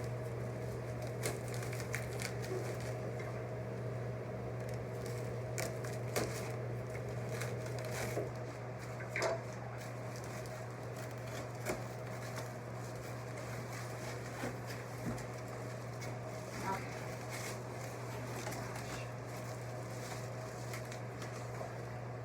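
Scattered light rustles, clicks and taps of plant packaging and pots being handled, over a steady low electrical hum.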